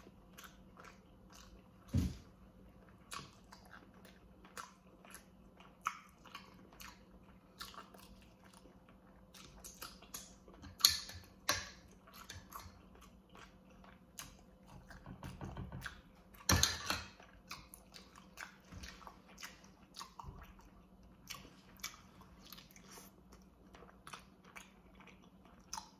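A man chewing and smacking close to the microphone as he eats baked chicken drumsticks, with frequent short wet clicks. A few louder clicks stand out, the loudest about 11 seconds in.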